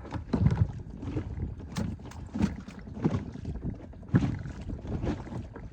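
Irregular knocks and thuds aboard a small inflatable boat, about one or two a second, over wind noise on the microphone.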